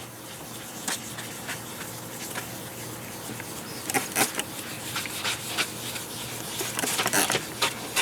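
Hand wet-sanding of a plastic headlight lens with a 1000-grit sanding pad: irregular short rubbing scuffs and clicks, busier about four seconds in and again near the end.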